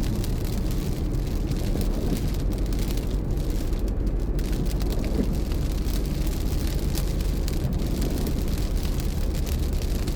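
A car driving at steady speed: a constant low rumble of engine and tyre noise.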